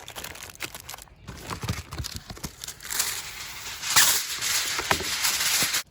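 Aluminum foil being handled, crinkling and rustling with many small crackles, louder in the second half.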